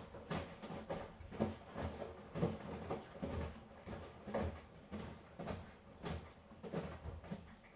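Miele washing machine drum turning during a wash, the laundry tumbling with a soft thud and swish of water about once a second.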